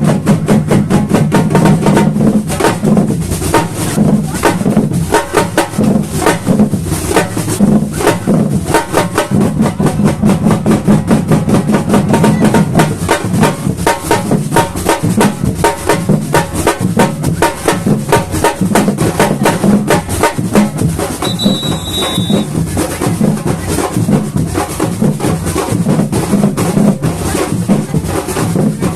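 Samba batucada drum ensemble playing a fast, driving rhythm, with snare-type drums over deep bass drums. A short, high whistle note sounds once about three-quarters of the way through.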